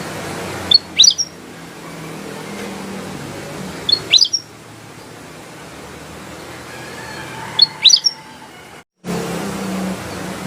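Kutilang emas bulbul giving a short, loud chirping call three times, about every three seconds, over a faint low hum. There is a brief gap of silence near the end.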